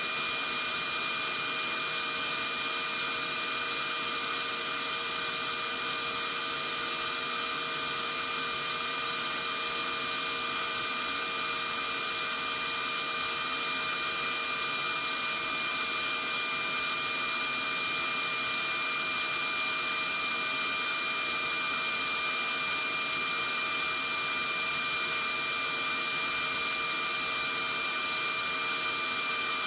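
Vacuum cleaner running steadily: an even rushing noise with several fixed whining tones from its motor, without any change in pitch or loudness.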